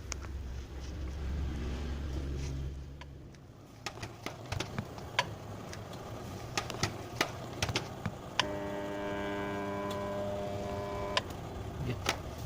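Clicks and knocks of parts being handled, then about eight seconds in a Sanken twin-tub washing machine's wash motor hums steadily for about three seconds without turning and cuts off suddenly: the hum of the stalled motor that marks the wash-tub fault.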